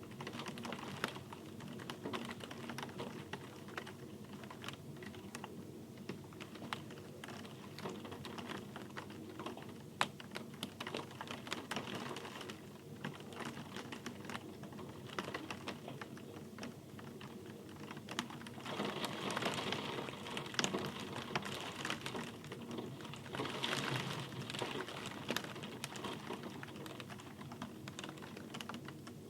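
Rain falling steadily, with many close, separate drops tapping. It swells louder twice in the second half.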